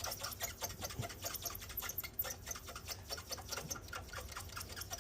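Quick back-and-forth rubbing strokes on the PS5's processor surface, scrubbing off oxidised liquid metal, heard as a fast, fairly even run of small scratchy ticks, several a second.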